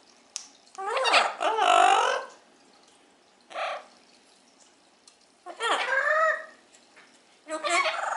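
Amazon parrots calling: four separate pitched calls that bend up and down, the longest about a second and a half, with short pauses between them.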